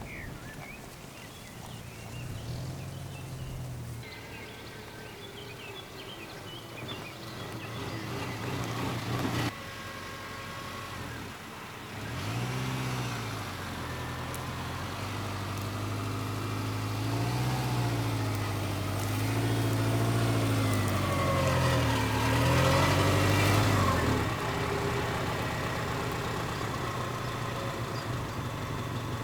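A vehicle engine running while driving, its note rising and falling over and over with speed, getting louder through the middle and easing off toward the end.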